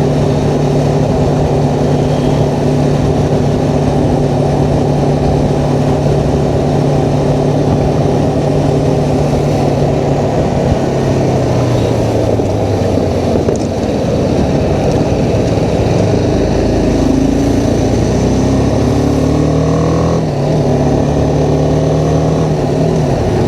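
BMW G310R single-cylinder engine running at steady road speed. About ten seconds in the engine note falls as the bike slows, then climbs again and settles steady near the end.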